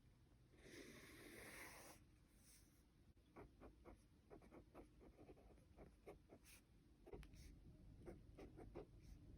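Faint pen strokes on paper: a quick run of short scratches from about three seconds in. Before that comes a brief rustle lasting about a second.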